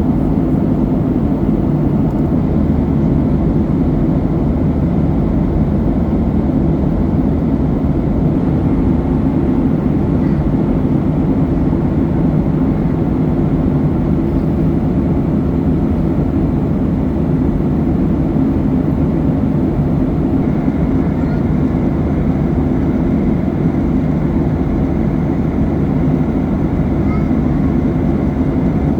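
Steady cabin noise of a Boeing 737-800 in cruise: a deep, even rumble of engines and rushing air heard from inside the passenger cabin.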